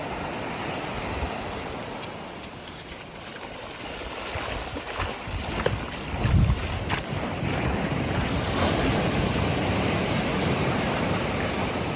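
Surf washing onto the beach, with wind buffeting the microphone; a wave surges in low and loud about six seconds in, and the wash stays louder after that.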